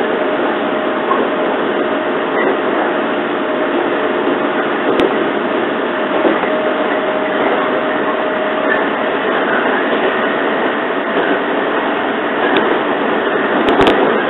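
Running noise inside a JR 115 series electric train carriage moving along the line: a steady rush with a faint steady tone through the first half and a few sharp clicks, the loudest near the end.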